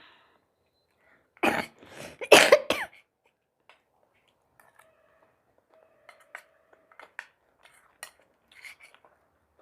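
A person coughs twice in quick succession, loudly, then faint clicks of cutlery against a dish follow.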